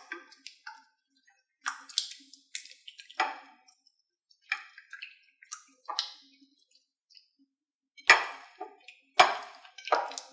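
Hands squishing a thick yogurt marinade into chicken pieces in a bowl: wet squelches and smacks at irregular moments, the loudest two about eight and nine seconds in.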